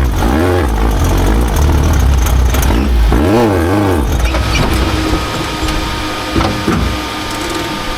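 Off-road race vehicle's engine revving up and down, with the biggest rev about three seconds in, then running quieter and steadier with a thin steady whine.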